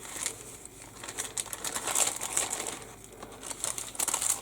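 Plastic kit bag crinkling and rustling as plastic model sprues are handled and slid back into it, with scattered small crackles and clicks.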